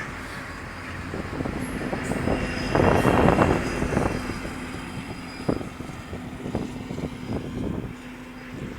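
A train passing on the track, a steady rumble with a run of knocks and clanks from the wheels and cars. It is loudest about three seconds in and then eases off.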